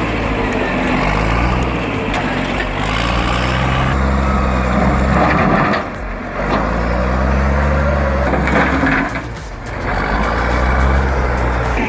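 Heavy machine's diesel engine revving up and easing off over and over, about every two to three seconds, as it works under load.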